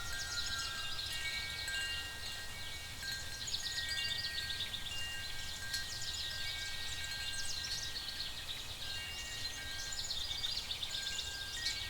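Layered night-forest ambience: soft chime tones ringing and overlapping, over dense high-pitched chirping of night creatures and a low, steady rumble.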